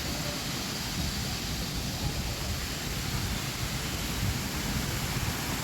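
Steady rush of falling water from a waterfall, an even hiss with a low rumble.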